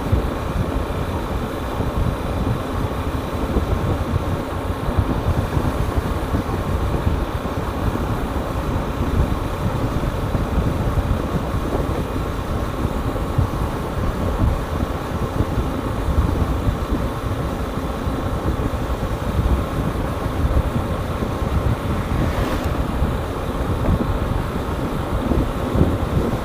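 Hero Hunk single-cylinder motorcycle riding at a steady speed, its engine running under a heavy rumble of wind on the microphone.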